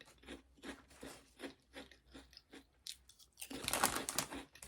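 A person chewing crunchy snack chips close to the microphone, about three crunches a second. Near the end comes a louder burst of crackling.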